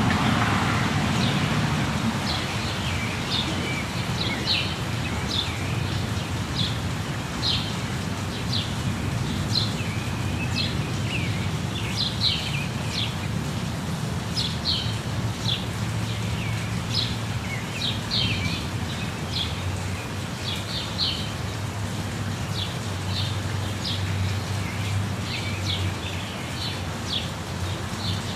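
Waterfall rushing steadily, with jungle birds chirping in short, high, repeated calls, several every second throughout.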